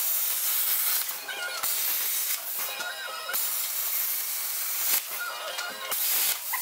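Compressed air hissing in about four bursts, each lasting roughly a second, that start and stop sharply with short gaps between them.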